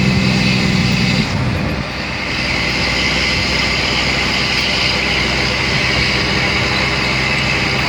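2004 Mack Granite dump truck's diesel engine, heard from the cab: a loud, steady low drone that cuts off abruptly about a second in, leaving the steady rumble and hiss of the truck running down the road.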